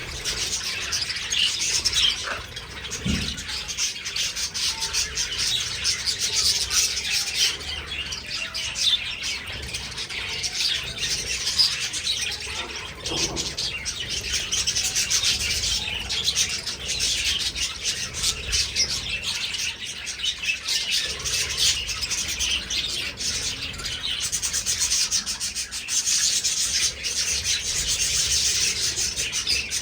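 A flock of budgerigars chattering continuously, many short chirps and calls overlapping.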